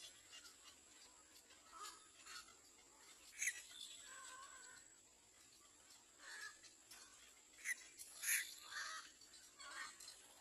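Short, high bird calls, about nine at uneven intervals, one held for nearly a second; the loudest come near the end.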